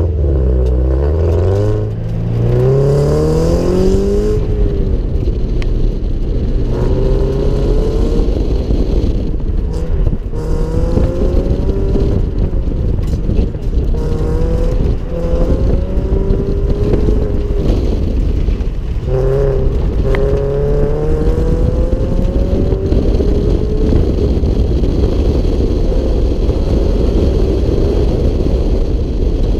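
Subaru BRZ's 2.0-litre flat-four engine, heard from inside the cabin on an autocross run. It launches and revs up hard in the first few seconds, then rises and falls in pitch again and again as the throttle is opened and lifted through the course.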